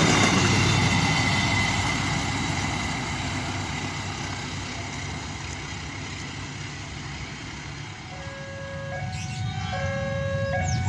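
Passenger train coaches rolling past on the rails, the rumble fading as the train pulls away. About eight seconds in, a two-tone alarm starts, alternating between a low and a high pitch.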